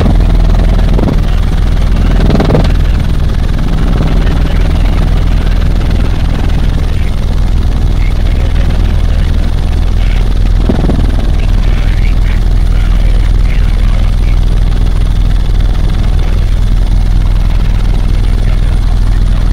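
Helicopter running steadily in flight, a loud, unbroken low rotor and engine drone.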